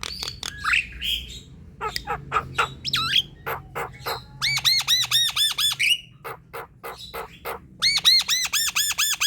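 Javan myna (jalak kebo) singing: a varied string of harsh squawks and clicks, broken twice by a fast run of repeated rising-and-falling notes, about nine a second, one in the middle and one near the end.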